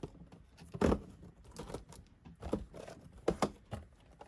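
Irregular light taps and clicks, a few a second, with a couple of louder knocks.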